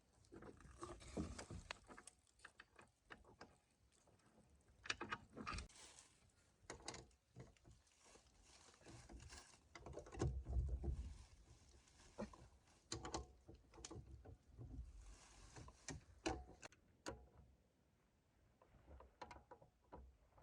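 Faint, irregular clicks, knocks and rustling of things being handled, with a louder dull thump about halfway through.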